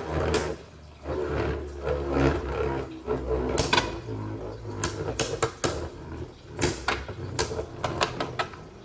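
Beyblade Burst spinning tops battling in a plastic stadium: a steady whirring hum with irregular sharp clacks as the tops strike each other and the stadium walls.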